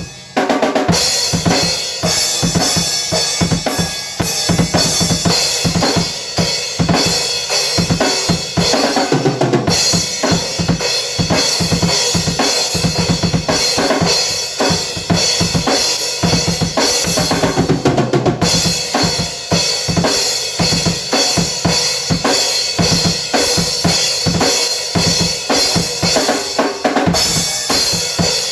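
A drum kit being played: a fast, continuous run of drum hits with cymbals washing over them, broken by a short gap just after the start.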